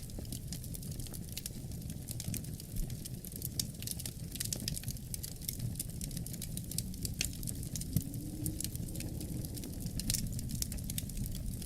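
Wood fire crackling, with frequent irregular sharp pops and snaps over a steady low rumble of wind.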